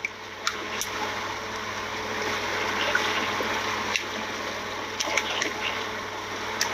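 Steady rushing and gushing of water with a faint low hum beneath and a few sharp clicks, on a fishing boat loaded with a net catch.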